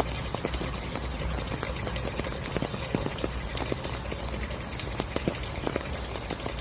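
Steady rain falling, a continuous hiss with many irregular close drops tapping.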